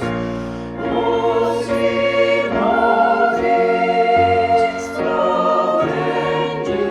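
A choir singing a slow sacred song in held chords, the chords changing every second or so.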